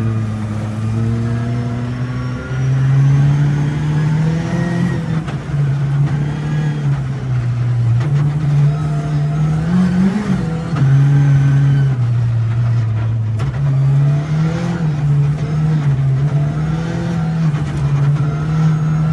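Car engine driven hard, its pitch repeatedly climbing and then dropping back, as with shifting through gears.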